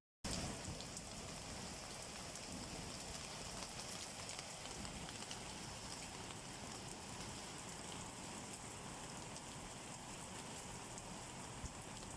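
Steady rain falling: an even hiss flecked with fine drop ticks. The sound cuts out completely for a split second right at the start.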